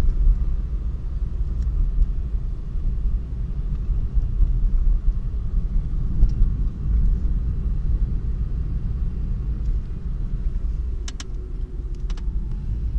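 Steady low rumble of a car running or driving, with a few short clicks about eleven seconds in.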